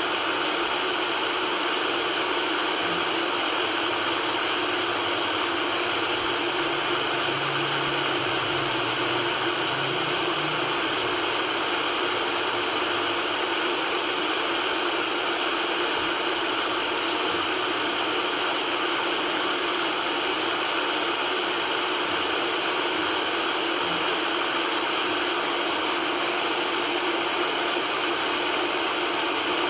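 Steady white noise, an even hiss with little bass that does not change.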